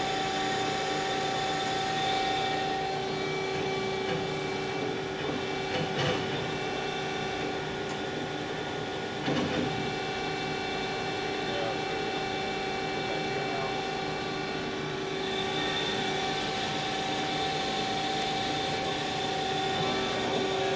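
DoAll TF-2021NC CNC vertical angle-cutting band saw running with a steady machine hum. Two short clunks come about six and nine seconds in.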